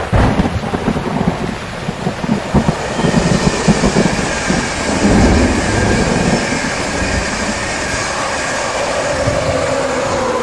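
Passenger train passing at speed: a loud rumble of wheels on the rails with irregular clattering knocks, and a steady hiss building from about three seconds in.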